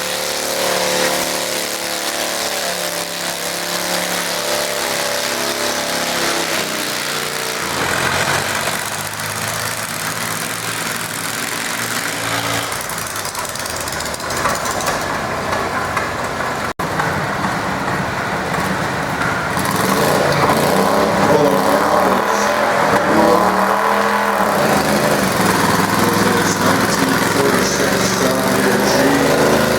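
Garden tractor engine running while pulling a weight sled, its note shifting several times, with a sudden brief break a little past halfway.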